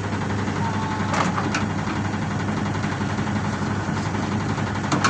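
Single-tub LG washing machine's motor running with a steady electrical hum, turning more slowly than it should. The slow spin is typical of a failing motor capacitor. A few sharp clicks are heard about a second in and again near the end.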